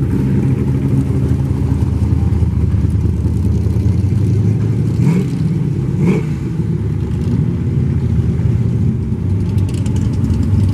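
Muscle car engines running steadily at low speed, heavy in the low end, with two short higher-pitched sounds about five and six seconds in.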